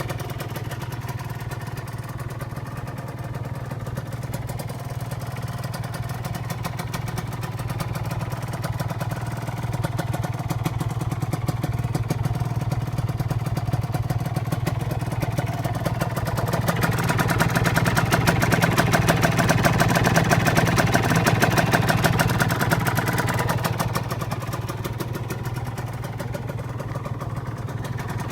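Kawasaki Ninja 150 RR two-stroke engine running through a PDK Tsukigi expansion-chamber exhaust. The revs climb slowly from about ten seconds in, stay highest for several seconds, then drop back near the end.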